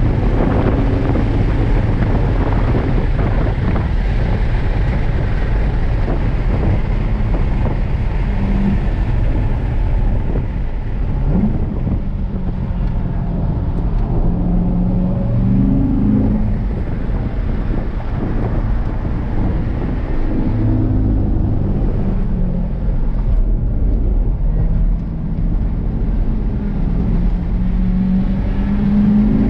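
2017 Corvette C7 Grand Sport's LT1 V8 heard from inside the cabin on track, running hard with its pitch rising and falling several times as it accelerates and slows through the corners.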